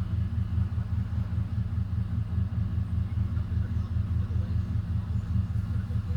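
Steady low rumble with a rapid flutter.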